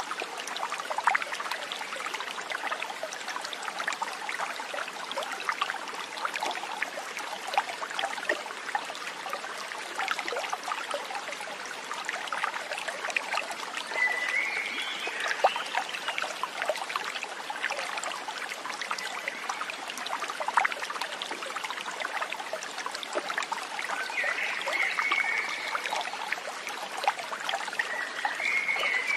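A small stream trickling and splashing steadily. A few short high calls come in about halfway through and again near the end.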